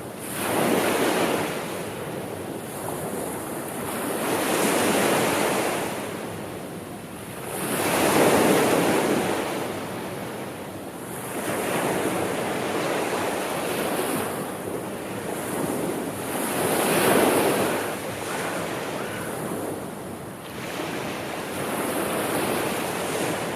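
Sea surf washing onto the shore, each wave swelling and easing away about every four to five seconds.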